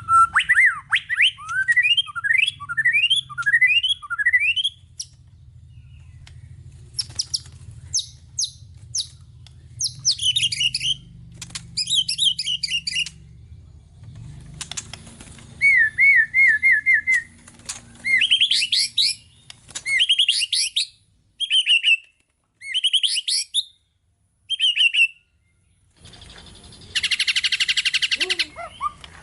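White-rumped shama singing a varied song of rising whistled glides, fast repeated notes and trills in separate phrases, packed with imitations of other birds' calls, with a harsh buzzing rattle near the end.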